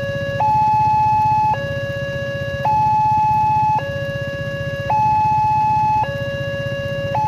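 Railway level-crossing warning alarm sounding a two-tone hi-lo pattern: a higher and a lower electronic note alternate about every second, the higher one louder. A low pulsing rumble runs underneath.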